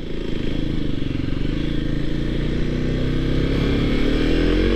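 Motorcycle engine running as the bike rides off, its revs rising and falling gently, with a change in pitch near the end.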